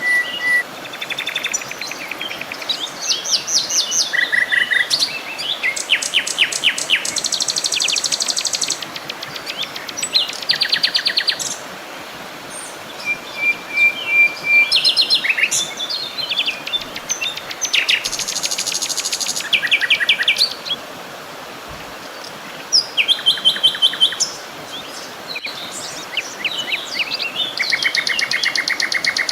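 Several songbirds singing together: rapid trills, quick runs of repeated chirps and a few short held whistles overlapping one another, over a soft steady background hiss.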